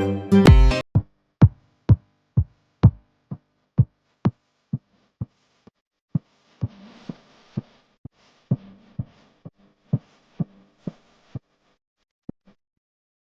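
A plain electronic kick-drum beat of evenly spaced low thumps, about two a second, with a faint hiss under it in the second half; it stops a couple of seconds before the end. A strummed guitar piece cuts off about a second in.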